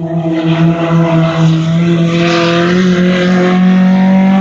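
Compact-class oval-track race car engine running at speed on the track. It swells loud right at the start, then holds steady and close while its pitch climbs slowly as the car accelerates.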